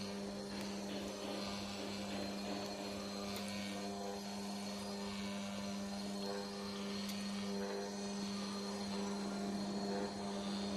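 Working cutaway model of a Hero Honda Splendor four-stroke petrol engine turning over, giving a steady electric hum with a few faint clicks.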